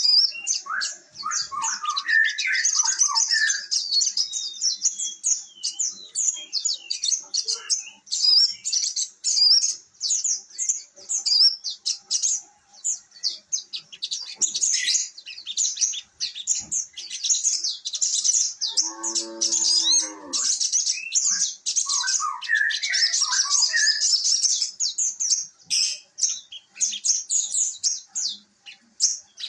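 Cage bird chirping in a fast, continuous high twitter, with a few lower falling notes near the start and about two-thirds through, and a short lower call about two-thirds through.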